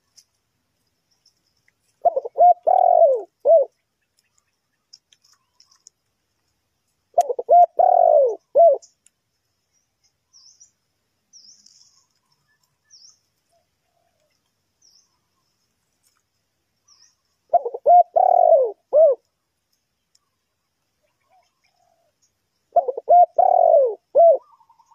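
Spotted dove cooing: four calls, each a phrase of several coos lasting about a second and a half, spaced several seconds apart.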